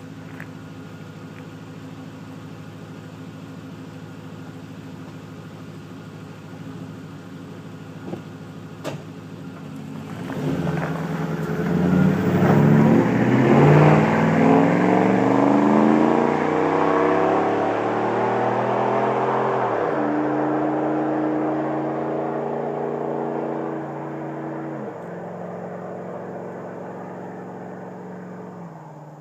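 Ford F-150 exhaust with Flowmaster mufflers: the engine runs steadily, then about ten seconds in revs up loudly and pulls away, its pitch dropping suddenly twice as it shifts up, and growing fainter toward the end.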